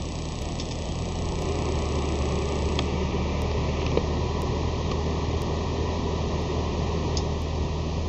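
Honda Accord EXi's inline-four engine idling steadily, a low hum that firms up a little about a second in.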